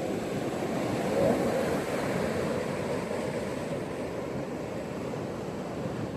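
Ocean waves washing onto a beach: a steady surf wash that swells slightly about a second in and then holds.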